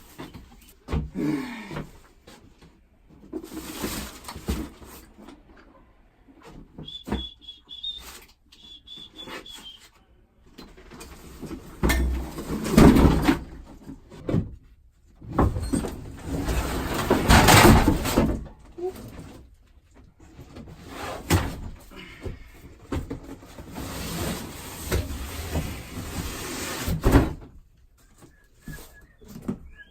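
Handling noise: scraping, rustling and knocks as heavy objects are moved about, with loud stretches of scraping. A bird chirps in short runs of high notes about seven and nine seconds in, and again at the very end.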